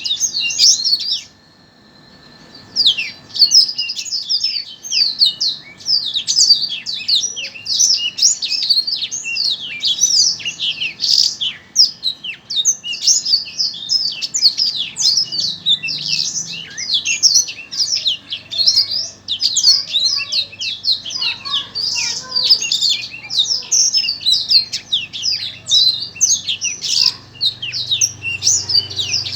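A caged songbird sings a fast, continuous chattering song of rapid high chirps and trills. The song breaks off briefly about a second in, then runs on without a pause.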